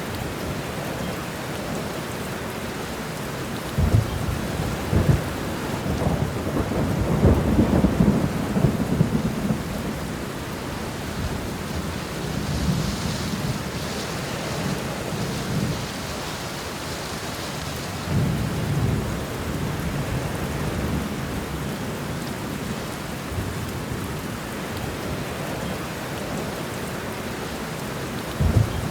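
Steady rain falling, with thunder: a clap about four seconds in that rolls into a long rumble, further rolls of thunder later, and another sharp clap near the end.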